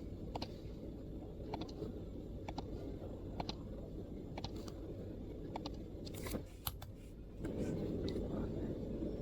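Sparse keystrokes on a MacBook keyboard: single light clicks every half second to a second, with a quick cluster of sharper clicks about six seconds in. A low background hum runs underneath and gets louder near the end.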